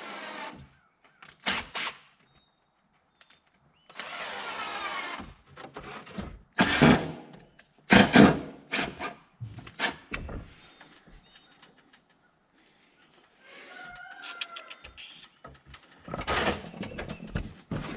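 A cordless drill runs for about a second and a half, driving a framing screw, with several loud knocks and clatters of timber and tools around it.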